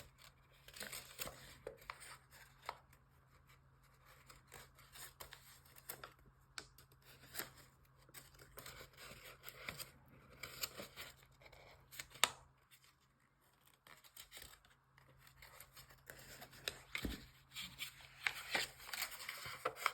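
Origami paper being folded and creased by hand: faint scattered rustles and crisp little ticks, with one sharper click about twelve seconds in.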